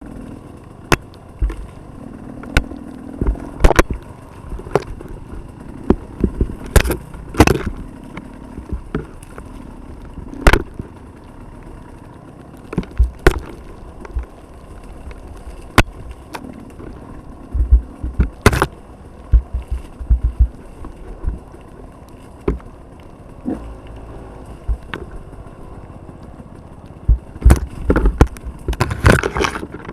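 Off-road vehicle on a rough trail: a low engine rumble under frequent, irregular sharp knocks and bangs as it jolts over the ground, coming thick and fast near the end.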